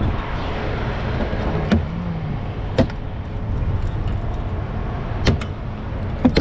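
Keys jangling, with four sharp clicks, over a steady low rumble of a semi-truck's engine, heard inside the cab.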